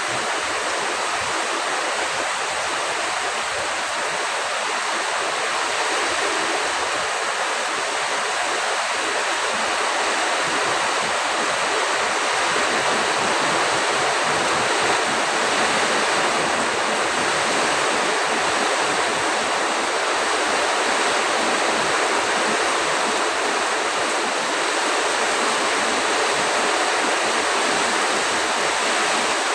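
Storm with heavy rain pouring down and strong wind, a steady loud rushing hiss with no breaks.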